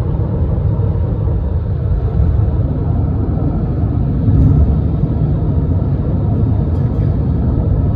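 Steady low rumble of a car travelling at highway speed, heard from inside the cabin.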